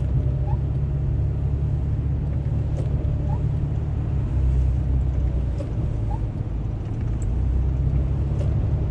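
Car running at road speed, heard from inside the cabin: a steady low rumble of engine and tyres.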